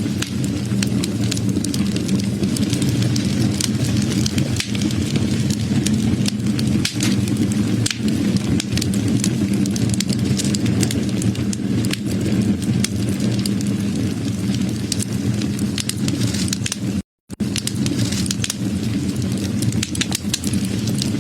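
Wood fire burning, with a steady low rumble under frequent sharp crackles and pops of burning wood. About seventeen seconds in, the sound cuts out completely for a split second and then resumes.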